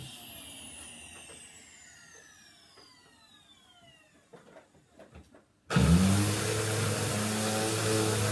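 A vacuum cleaner's motor winds down after being switched off, its whine falling in pitch and fading over about four seconds. A few light knocks follow. A little before the end, an electric motor switches on abruptly and runs steadily with a hum and a rushing hiss.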